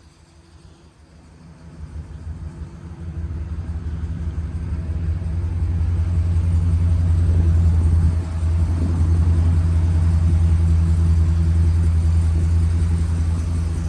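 Low, steady rumble of a vehicle engine running at idle, growing louder over the first several seconds and then holding steady, with a brief dip about eight seconds in.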